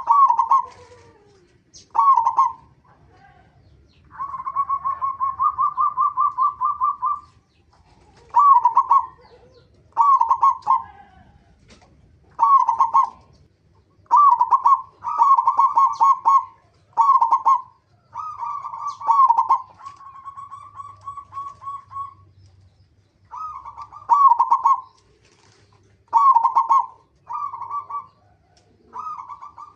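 Zebra dove (perkutut) cooing: repeated short staccato phrases, with two longer rapid runs of cooing notes, one about four seconds in and one near the twenty-second mark.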